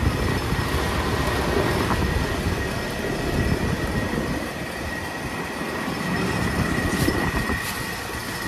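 Outdoor heat pump units running in cooling mode: condenser fans blowing and compressors running, a steady noise with a low rumble and a constant high whine.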